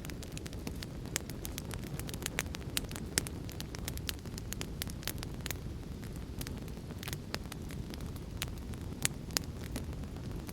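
Fire in a fireplace crackling: many irregular sharp pops and snaps over a steady low rumble of the flames, with a few louder pops about three seconds in and again near nine seconds.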